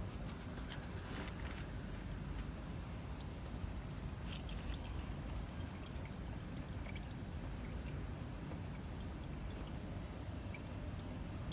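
Used engine oil trickling and dripping from the Ford Kuga's loosened oil filter into a drain container, with a few light clicks of handling.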